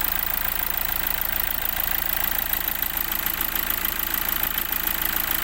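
Hyundai Accent CRDi common-rail diesel engine idling steadily, now running clean after its CP1 high-pressure fuel pump fault was fixed.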